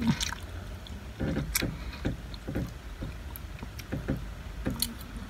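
Close-up chewing and mouth sounds of someone eating a mouthful of roast pork and noodles, in short irregular bursts. There are a few sharp clicks of a metal fork and spoon, over a steady low hum.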